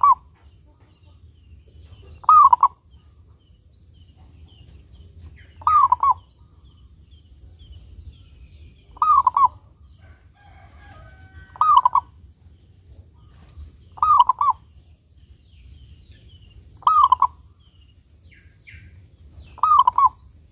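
Zebra dove (perkutut) singing its cooing phrase: a short, quick run of coos repeated about every three seconds, eight times. Faint high chirping lies between the phrases.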